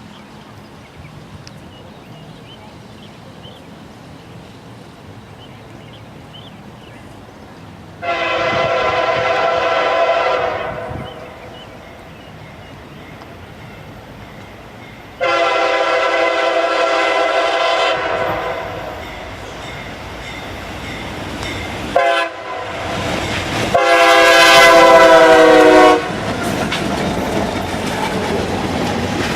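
Diesel locomotive's air horn sounding the grade-crossing signal: two long blasts, a short one and a long one, as the train approaches. Then the loud, steady rumble of the train passing close by on the rails.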